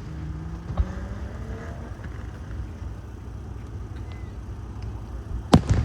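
Fireworks shells bursting: a sharp bang about a second in and a louder double bang near the end, over a steady low rumble.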